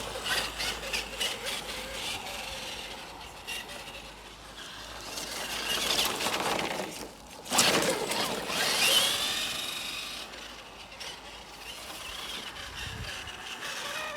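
Tamiya Twin Detonator RC buggy driving on two 550 electric motors, their whine gliding up and down with the throttle over a gritty scraping noise, loudest about seven and a half seconds in. It is running slowly on a 2-cell LiPo that is not fully charged.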